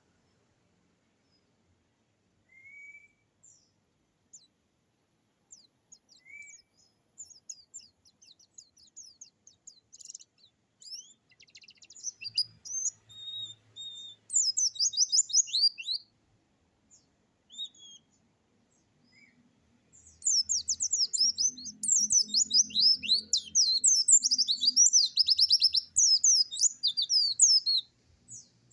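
Songbird that Indonesian keepers call the dakun, singing a rapid, varied 'nembak' song. Scattered short high calls come first, then a dense burst of fast, high-pitched notes about halfway through, and near-continuous rapid chattering through the last eight seconds.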